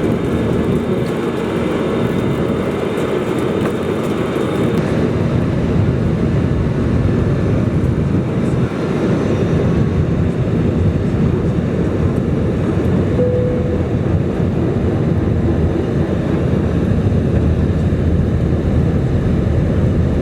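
Steady engine and airflow noise in the cabin of an Airbus A320 airliner.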